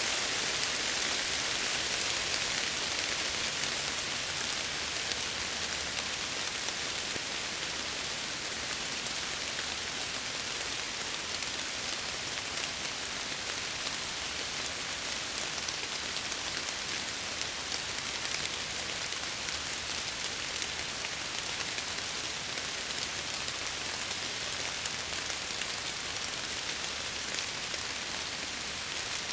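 Steady rain falling against a window, an even hiss with fine scattered drop ticks, a little louder in the first few seconds.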